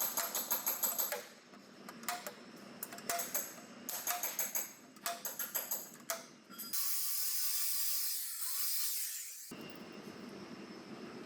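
Bursts of quick, sharp metallic clicks and taps for about six seconds, followed by a steady high-pitched hiss of about three seconds that cuts off abruptly.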